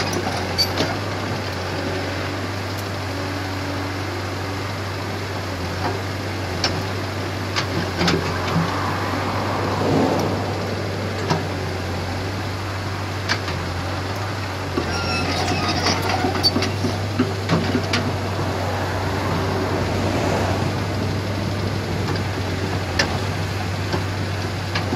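Komatsu PC75 excavator's diesel engine running steadily, with scattered sharp knocks and clanks from the machine at work.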